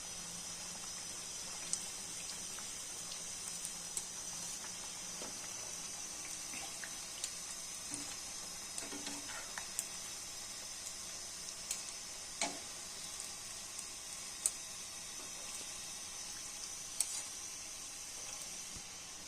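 Potato snacks frying in hot oil: a steady sizzle with scattered sharp pops and crackles.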